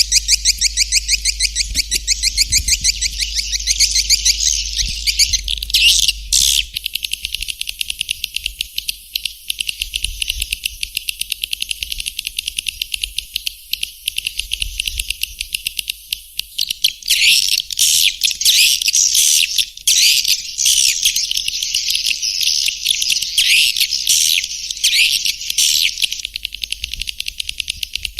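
Swiftlet call recording, the lure sound played to draw swiftlets into a nesting house: rapid, unbroken trains of high twittering chirps and clicks. From about 17 seconds in it turns into denser, louder bursts. A low hum sits underneath during the first few seconds.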